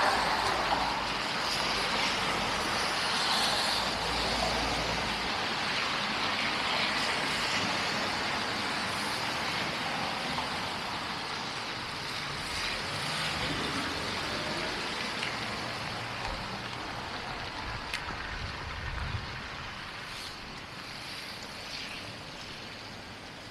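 City street traffic noise, with a vehicle that has just passed fading away, so the rush of sound grows steadily quieter.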